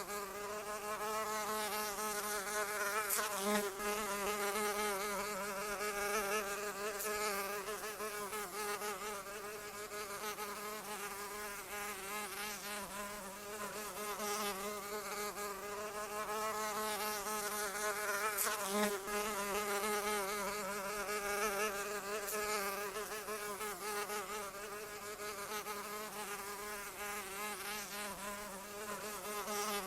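A flying insect's wings buzzing, a steady hum whose pitch wavers up and down continually, with a few brief swells in loudness.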